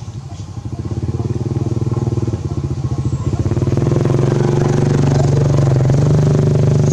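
A small engine running steadily with a fast, even pulse, getting louder about halfway through.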